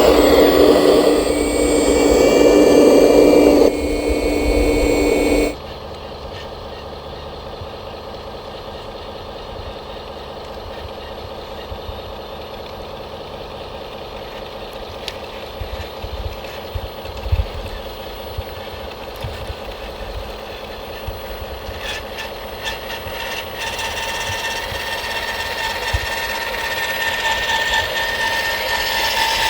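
Radio-controlled model trucks and construction machines running, with an engine-like sound and steady tones. It is loud for about five seconds, then drops suddenly to a quieter steady running sound that grows louder toward the end.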